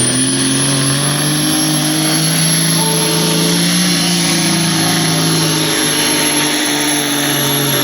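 Diesel engine of a 1977 Kenworth semi truck running hard at steady high revs while pulling the sled, really loud, with a thin high whine held steady over it.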